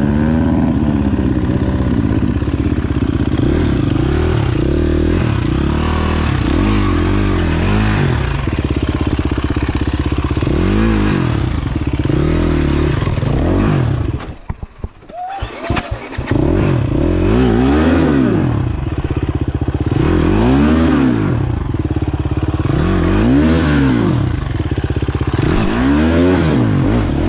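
Dirt bike engine being ridden hard, its pitch repeatedly rising and falling every two to three seconds as the throttle is opened and closed. About halfway through, the engine sound drops away briefly before picking up again.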